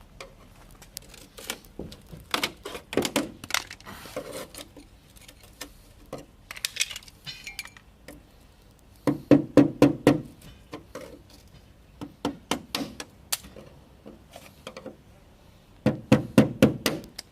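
Runs of quick, sharp taps and knocks, about five or six a second in the loudest bursts, with a clinking ring: a hand tool striking the van's repaired bodywork panel.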